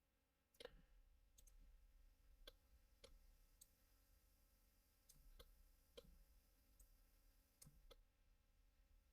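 Near silence with faint, irregularly spaced clicks of a computer mouse and keyboard, about a dozen in all.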